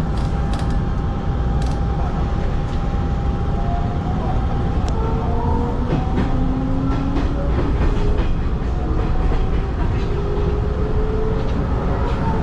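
Hanshin 5500 series electric commuter train running along the track, heard from inside the cab: a steady low rumble with faint whining tones that slide up and down and a few sharp clicks of the wheels over the rails.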